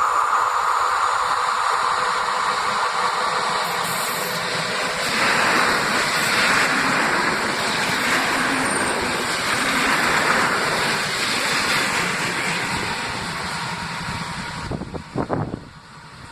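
A train running past, a steady rush of wheel and rail noise that fades away near the end.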